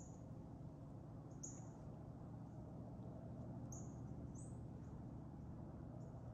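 Quiet woodland ambience with a handful of short, very high chirps from small birds, spaced irregularly over a faint steady low hum.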